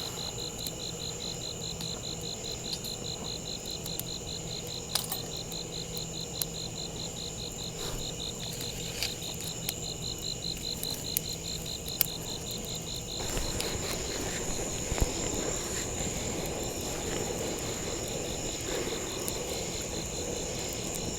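Outdoor insect chorus: a fast, evenly pulsing chirp that stops about two-thirds of the way through, over a steady high-pitched drone. Scattered sharp clicks sound now and then.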